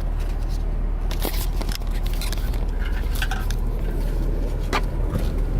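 Car cabin noise while driving: a steady low engine and road rumble, with a few sharp clicks or knocks.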